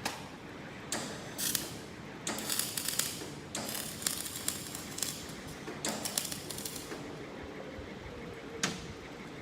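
Flux-cored (FCAW) wire welder laying short tack welds to fit up test pieces: about six brief bursts of arc noise, each lasting a fraction of a second to about a second.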